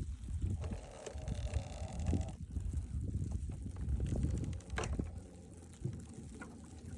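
Boat's electric trolling motor running as the boat swings back around, with a faint whine about a second in, under gusty wind rumble on the microphone and small knocks.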